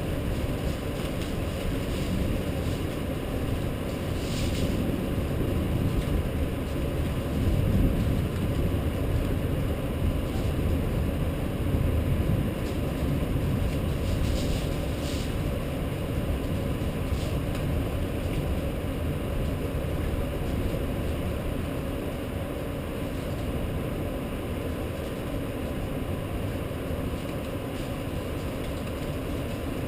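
Rainstorm noise: a steady low rumble of wind and rain that swells a little about eight to twelve seconds in, with a few faint ticks.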